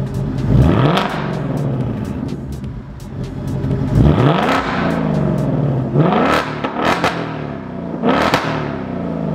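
2024 Ford Mustang Dark Horse's 5.0-litre Coyote V8 revved four times, each rev climbing quickly and dropping back to idle. It is running through a Corsa double H-pipe exhaust with the factory resonator removed.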